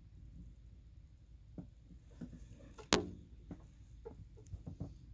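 A single sharp knock or clack with a brief ringing tail about three seconds in, among a few fainter clicks over a low steady rumble.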